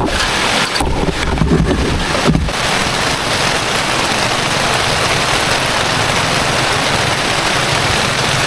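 Heavy rain pouring down in a loud, steady hiss, with a few dull knocks in the first couple of seconds.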